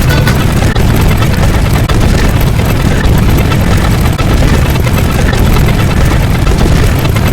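A very loud, steady, heavy rumble like a large engine or machine running, with dense noise from the deep low end up into hiss.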